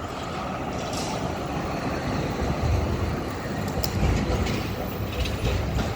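A street tram passing on its rails, a low rumble that swells in the middle, with a few short clicks from the wheels and track.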